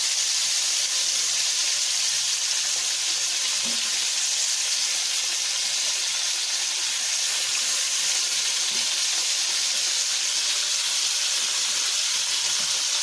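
Flour-dredged chicken liver frying in a pan of olive oil, a steady, even sizzle.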